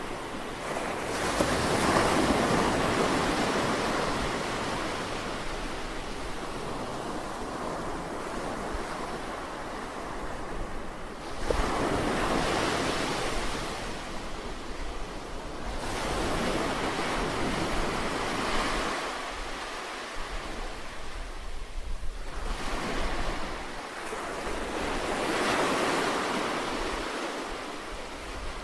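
Sea waves breaking and washing up the shore, the surf swelling and ebbing about five times, each surge a few seconds long, over a low rumble.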